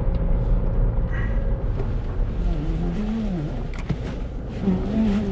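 A vehicle engine running steadily with a low drone while a trailer is manoeuvred into place. A sharp click comes just before the end, and there are a few brief murmured voice sounds.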